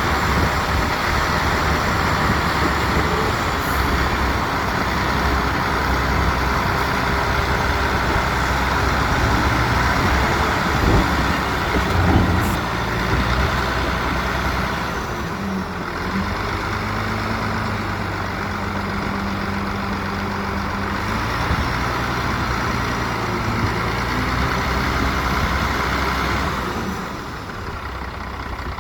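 Heavy diesel earthmoving machinery running steadily, with the engine note shifting a few times and a couple of knocks about eleven or twelve seconds in.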